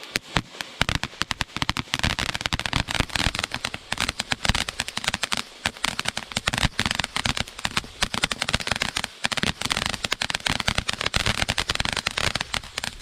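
Consumer firework going off in a rapid, dense barrage of sharp crackling pops, many a second, with a brief lull about nine seconds in.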